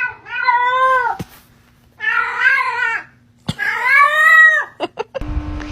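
A cat meowing three times: long, drawn-out meows of about a second each, rising and then falling in pitch. Near the end a low rumbling noise with a steady hum cuts in abruptly.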